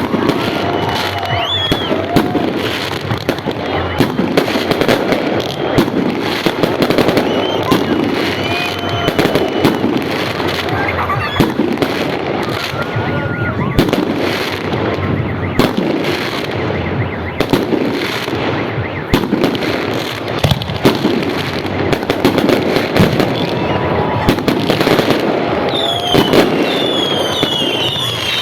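New Year fireworks salute: a dense, continuous run of bangs and crackling bursts, with a string of repeated whistles from whistling shells near the end.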